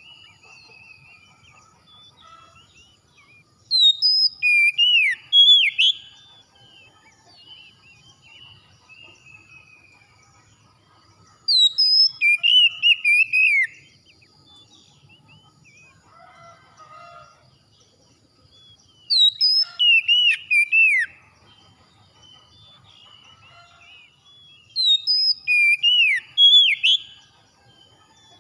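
Oriental magpie-robin (kacer) song: loud bursts of clear whistled notes that sweep up and down, four phrases of about two seconds each, one roughly every seven seconds. Faint chirps continue between the phrases.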